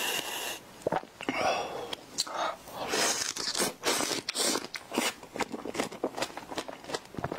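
A whipped-cream aerosol can hisses briefly at the start, stopping about half a second in. Then a person bites into a cream-topped strawberry and chews it, with many small wet clicks close to a clip-on microphone.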